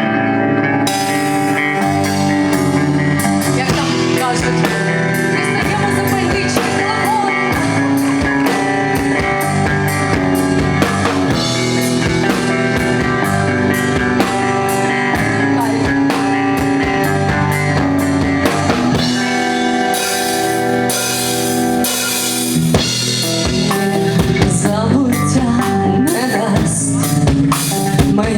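Rock band playing an instrumental passage: electric guitar over a drum kit, with sustained chords and steady drum hits.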